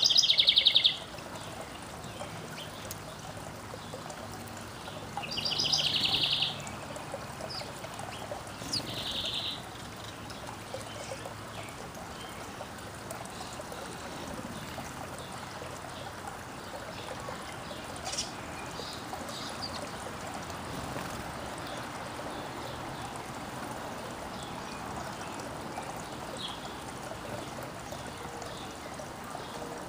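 Backyard songbirds calling: one gives three loud calls of about a second each, at the start, around five seconds in and around nine seconds in, followed by scattered fainter chirps. Behind them runs a steady, even rushing sound.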